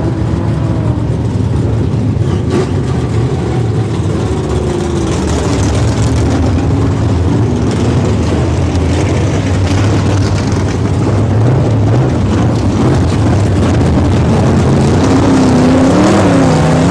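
Several dirt-track modified race car engines running loud, their pitch rising and falling as they rev.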